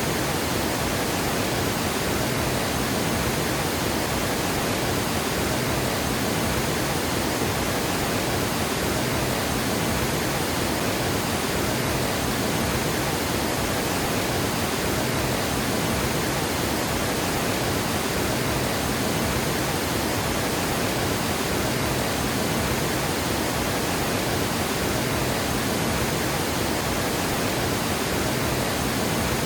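Water pouring over a dam spillway: a steady, even roar of falling water that does not change.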